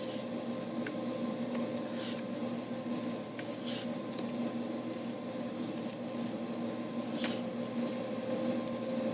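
Steady mechanical hum of running equipment, with a few faint clicks and brief scraping rubs, typical of an inspection camera's push cable sliding down a drain pipe.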